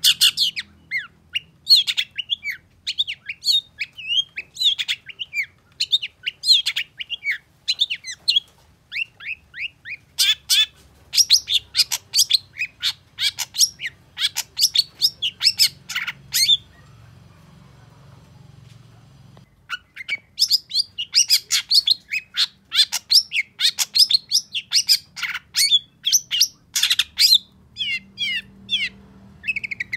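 Long-tailed shrike (cendet) singing: a fast, dense run of short, sharp chattering notes, breaking off for about three seconds past the middle before starting up again.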